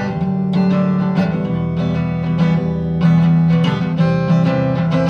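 Acoustic guitar strummed steadily in an instrumental passage between sung lines of a song.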